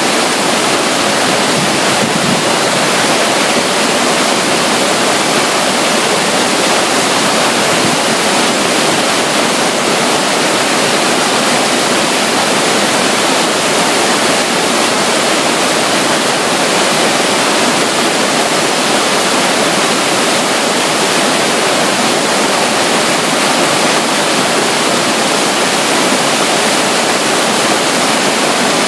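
Steady rushing of water, with no breaks or changes: a tiny stream trickling at the edge of a river, with a waterfall close by.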